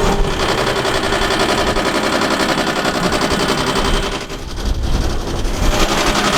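A vehicle engine running steadily close by, a dense, fast-pulsing drone that dips briefly about four seconds in and then picks up again.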